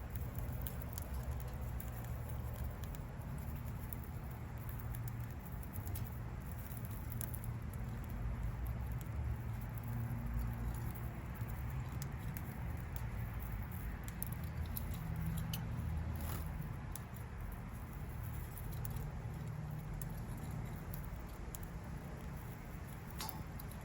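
Budgie being hand-fed: soft pattering and scratching with scattered faint clicks over a steady low rumble.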